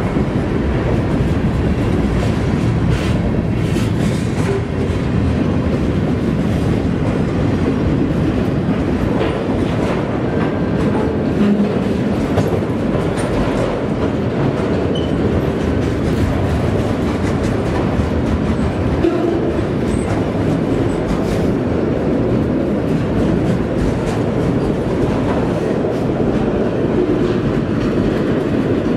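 Freight train cars, covered hoppers and autoracks, rolling past at close range: a steady rumble of steel wheels on rail with a clickety-clack over the rail joints.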